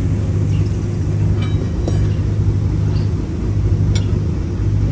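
Engine idling steadily with a low, even hum, with a few faint metallic clinks about two and four seconds in.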